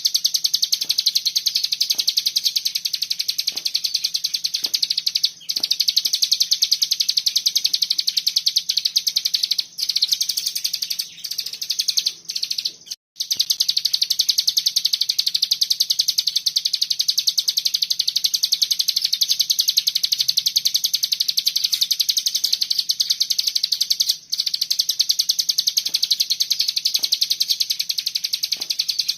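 Cigun songbird singing the fast, dense 'bren' trill, a continuous high buzzing run of notes broken only by a few brief pauses. A faint steady low hum sits beneath it.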